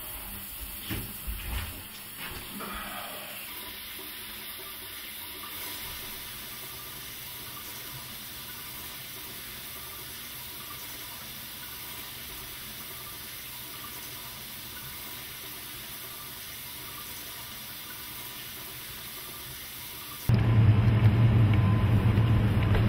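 Shower water running in a steady hiss, with a few knocks in the first couple of seconds. Near the end it cuts abruptly to a much louder low rumble.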